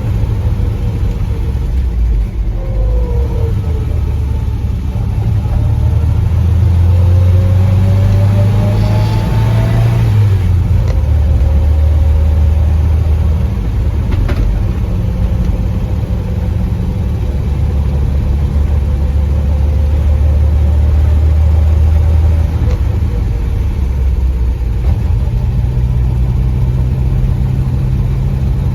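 Triumph Spitfire 1300's four-cylinder engine running on the move. Its note climbs and then drops about ten seconds in, holds steady, and shifts again a little after twenty seconds.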